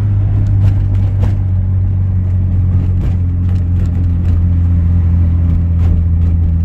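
Car engine and road noise while driving in second gear, a steady low drone that shifts slightly in pitch about three seconds in. The engine has just flagged knock above 3,000 RPM and lit the check engine light.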